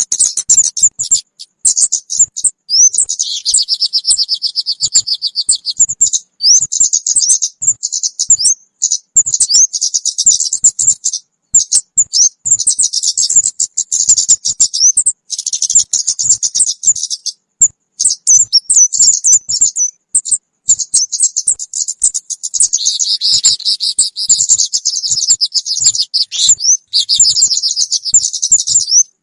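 Kemade bird calls played as a trapping lure: dense, high-pitched chirping with rapid buzzy trills, going on almost without a break.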